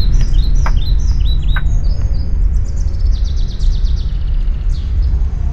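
Small birds chirping, with short falling notes and a rapid trill of repeated notes about halfway through, over a steady low rumble.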